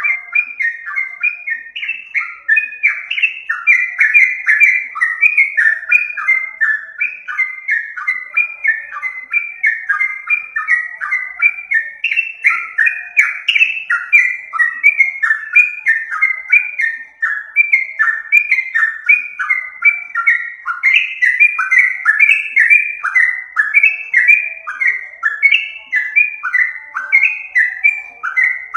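Yellow-vented bulbul (trucukan) song used as a lure call: a continuous, loud run of rapid bubbly chattering notes, about four or five a second, each note dropping in pitch.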